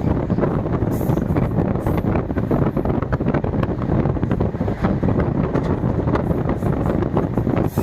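Wind buffeting the microphone: a loud, steady, rough rumble with crackling.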